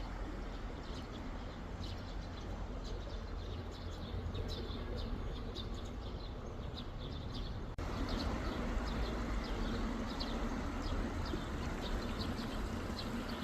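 Small birds chirping, many short high calls repeating throughout over a steady low background rush. About eight seconds in, the background cuts abruptly and comes back a little louder.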